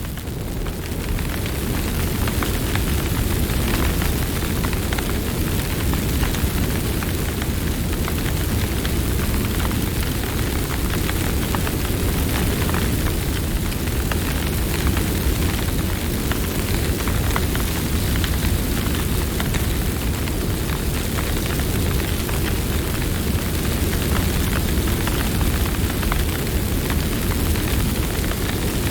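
Campfire burning steadily, with a continuous low rumble of flames and many small crackles and pops from the burning wood.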